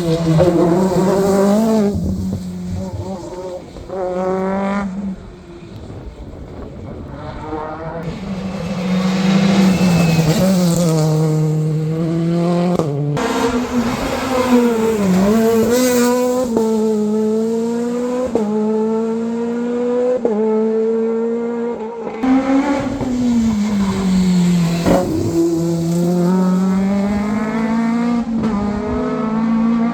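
Rally cars driven hard through a bend, their engine note climbing and dropping again and again with the gear changes. Several separate passes follow one another, with sudden breaks between them.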